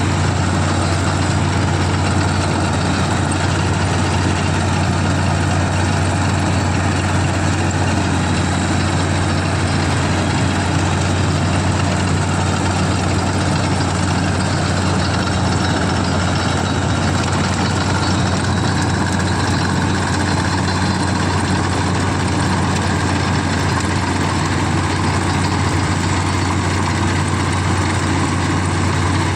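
CLAAS combine harvester's diesel engine running steadily, a constant deep hum that does not rise or fall.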